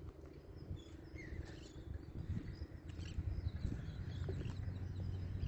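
Outdoor beach ambience: scattered faint bird calls over a low steady rumble of wind on the microphone.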